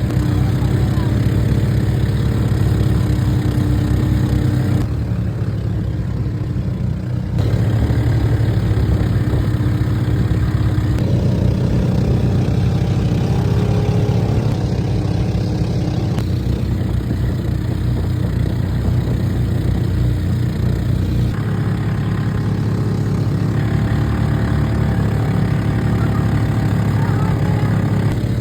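An engine running steadily with a low, pulsing drone.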